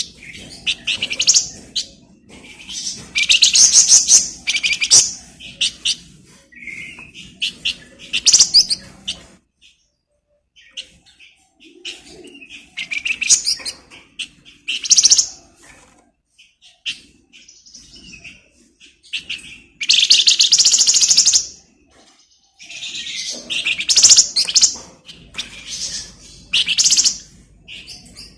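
Flamboyan songbird singing vigorously: loud bursts of fast, rattling chatter and trills, broken by short pauses.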